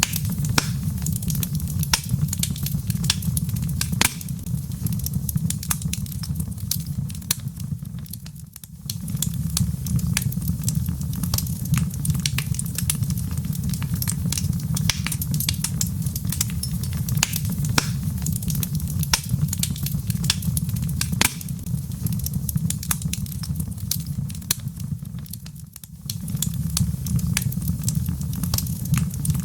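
Wood fire crackling, with frequent sharp pops over a steady low rumble. The whole sound dips briefly and comes back twice, about 9 seconds in and again near the end.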